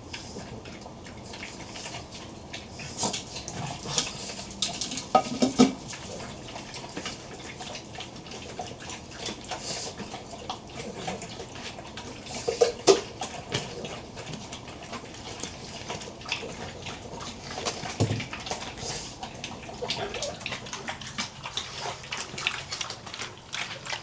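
Pugs eating breakfast: irregular small clicks and crunches of food and bowl, with a few short, louder dog sounds about five seconds in and again about thirteen seconds in.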